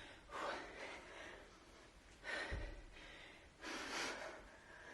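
A woman's hard breathing while she lifts a kettlebell: three forceful breaths, the second with a dull low thud.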